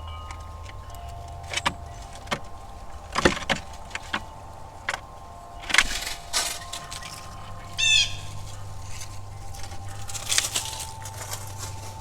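Backyard outdoor ambience: a low steady rumble, a few long ringing tones, and scattered sharp clicks and taps. About eight seconds in, a bird gives one quick run of high, falling notes.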